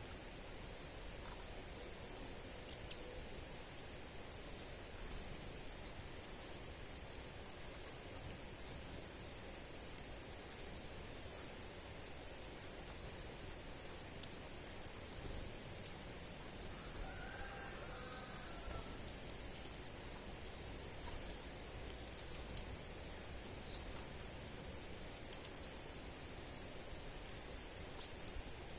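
Small birds calling: a string of short, high-pitched chirps and quick downward-sliding notes, irregularly spaced, over a faint steady outdoor background.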